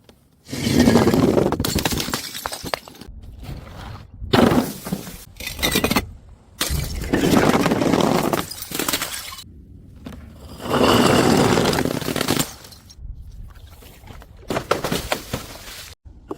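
Glass bottles smashing and shattering, one after another, about five times.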